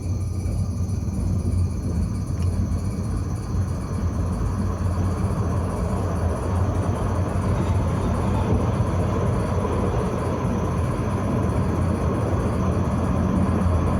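Tram running along its rails: a steady low rumble of wheels and running gear that swells over the first couple of seconds and then holds.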